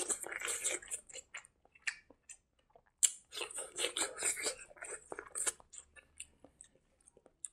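Close-miked chewing of a hand-fed mouthful of rice: wet smacks and clicks of the mouth in two flurries, one at the start and one from about three seconds in, with scattered small clicks between.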